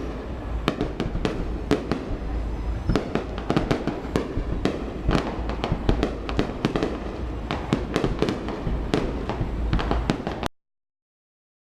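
Aerial fireworks display: a rapid, unbroken run of sharp bangs and crackling bursts over a low rumble of shell explosions. It cuts off abruptly near the end.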